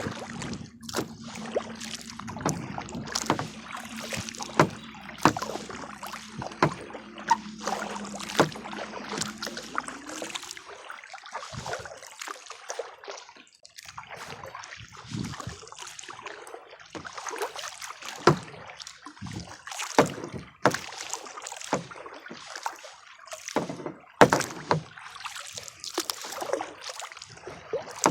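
Kayak paddling: paddle blades dipping and splashing in the water, with dripping and frequent short knocks and clicks. A steady low hum sounds underneath for the first ten seconds or so, rising in pitch just before it stops.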